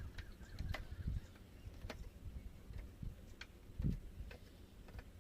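Irregular light metallic clicks and taps of hand tools and terminal links being handled on a star-delta starter panel, with a dull knock about four seconds in.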